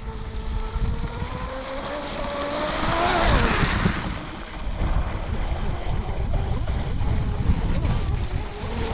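Electric motor and propeller whine of a Pro Boat Blackjack 24 V2 RC catamaran on a speed pass: the pitch climbs as it approaches, peaks about three seconds in, then drops away as it passes. Wind buffets the microphone throughout.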